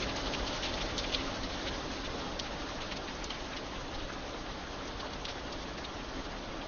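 Steady rain falling, a constant hiss with a few louder drops ticking sharply here and there.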